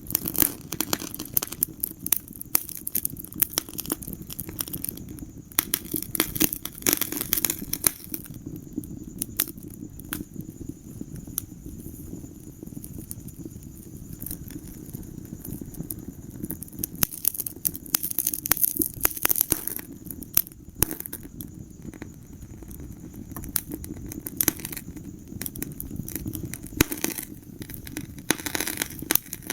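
Wood fire crackling in a fireplace: frequent irregular sharp pops and snaps, thicker in some stretches, over a steady low rumble of the flames.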